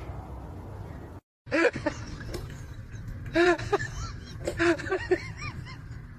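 A low rumble that cuts off about a second in, then a series of short animal cries, each rising then falling in pitch, in several bunches.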